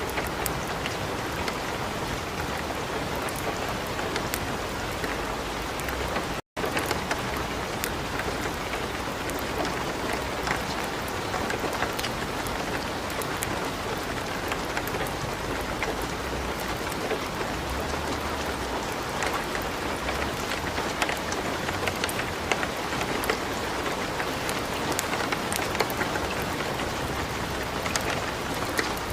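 Steady light rain hissing, mixed with the scattered sharp crackles of a burning wood fire. The sound cuts out for an instant about six seconds in.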